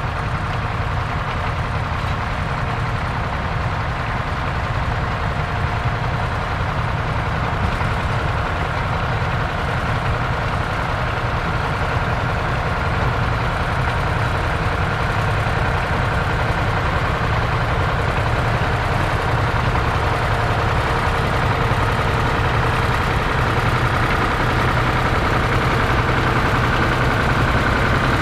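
Vintage tractor engine running steadily, growing slightly louder toward the end.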